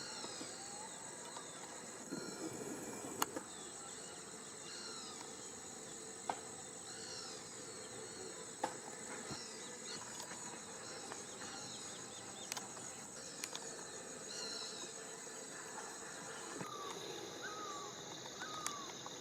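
Outdoor nature ambience: a steady high-pitched insect drone, with a bird's short falling chirps repeating every second or so and a few sharp clicks.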